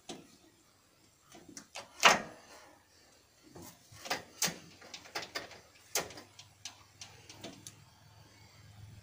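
Scattered knocks, clicks and clunks of someone handling a tractor just before starting it, the loudest knock about two seconds in and a quicker run of clicks after that.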